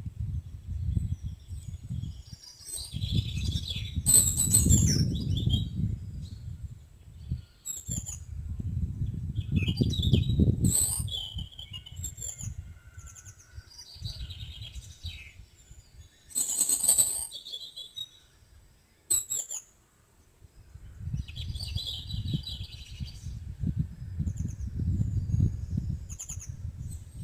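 Songbirds chirping and twittering in short, scattered phrases, with a low rumbling noise that swells and fades several times underneath.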